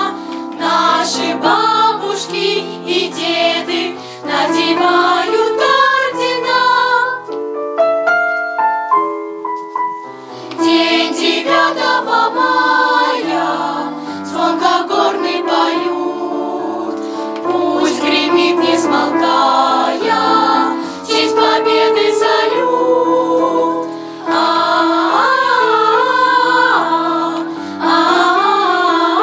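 Children's choir singing a song in unison with piano accompaniment. About seven seconds in, the voices stop for roughly three seconds and the piano plays alone before the choir comes back in.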